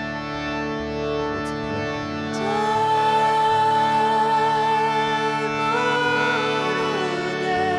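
Kirtan music: a steady, sustained instrumental drone, with a wavering melody line that comes in about two and a half seconds in and changes pitch near the end.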